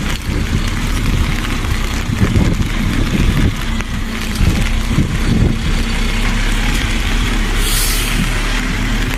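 Heavy logging truck's diesel engine running, with a short hiss of air about eight seconds in.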